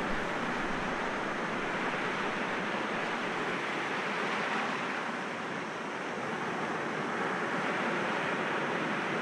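Sea waves breaking gently against rocks: a continuous wash of surf that eases slightly a little past halfway, then builds again.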